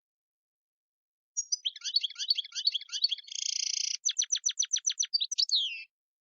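European goldfinch singing: a twittering phrase starting about a second and a half in, then a buzzy rasp, a quick run of clicking notes, and a falling note near the end.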